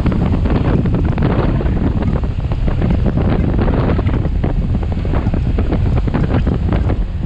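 Loud, steady wind buffeting on the microphone of a camera riding on a moving motorcycle, with a low rumble underneath.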